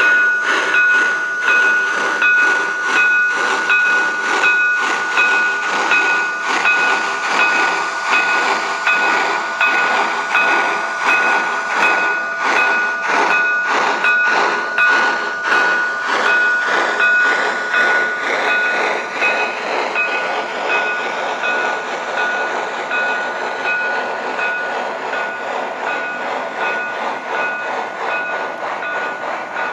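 Model Southern Pacific AC-12 cab-forward steam locomotive running with its sound system chuffing steadily, about two exhaust beats a second, over a steady high whine. It gets slightly quieter toward the end.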